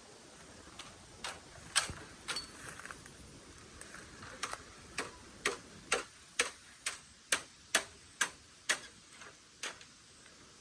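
A series of sharp clicks, a few scattered at first, then a steady run of about two a second that stops near the end.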